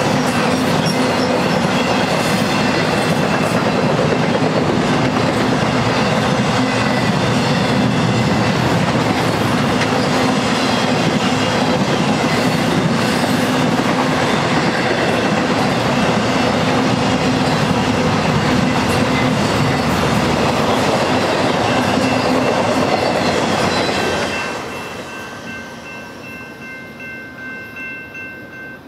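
Intermodal freight train's trailer-carrying flatcars rolling past at speed: a loud, steady rumble and clatter of wheels on rail. About 24 seconds in the last car goes by and the rumble fades away, leaving a steady high ringing from the grade-crossing signal bell.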